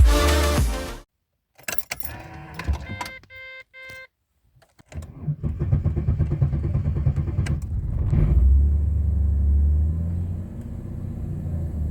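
Keys rattle in the ignition and a warning chime beeps three times. Then the 1996 Ford EF Fairmont's 4.0 L inline-six cranks over on its starter for a few seconds, catches with a quick rise, and settles into a steady cold idle.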